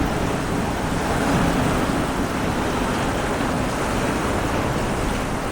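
Heavy thunderstorm rain pouring down, a steady even wash of noise with no breaks.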